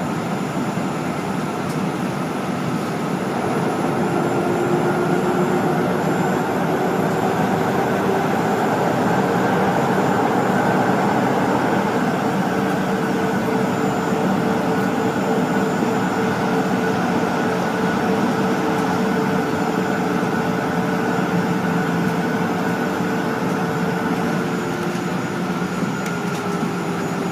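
Jet airliner cabin noise: the engines and rushing air make a steady loud drone heard from inside the cabin, with a few faint steady hums under it. It grows slightly louder a few seconds in.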